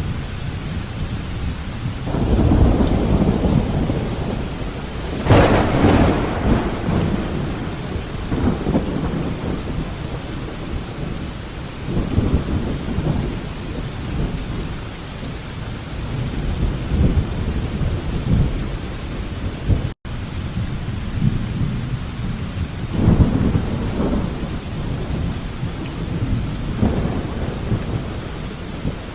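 Steady heavy rain of a thunderstorm with repeated rolling thunder: low rumbles swell and fade several times, and one sharper, brighter thunderclap comes about five seconds in. The sound cuts out for an instant about twenty seconds in.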